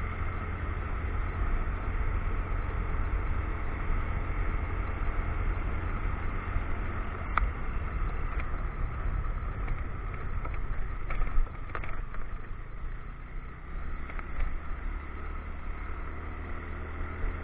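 Motorcycle riding along a road: steady engine and wind rumble, with a few short sharp knocks a little past the middle.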